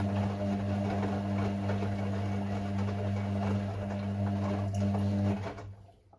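Hoover Six Sportswear 1300 washing machine running with a steady low hum, which cuts off suddenly about five seconds in.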